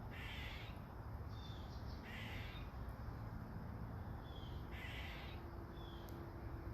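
A crow cawing: three harsh caws, each about half a second long, a couple of seconds apart.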